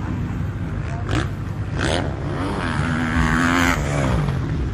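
Motocross bikes revving, with several engines heard at once and their pitch repeatedly rising and falling.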